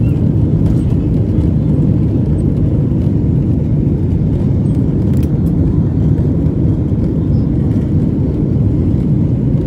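Steady low rumble of a Boeing 747-400's engines and airframe, heard from inside the passenger cabin during takeoff.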